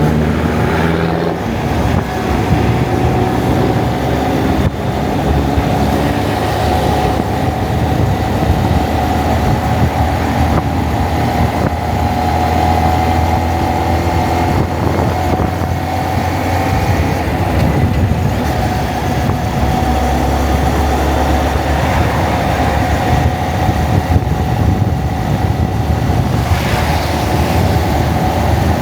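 Honda Monkey's single-cylinder engine running at low speed in slow, jammed traffic, with other vehicles around and wind noise on the camera microphone.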